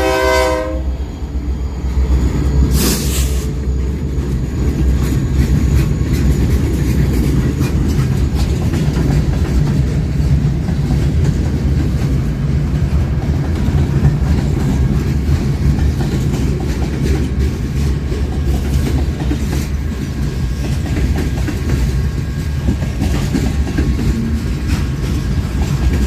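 A locomotive horn chord cuts off about a second in, then a train rolls past with a steady low rumble and the clatter of wheels over the rail joints. A short hiss comes about three seconds in.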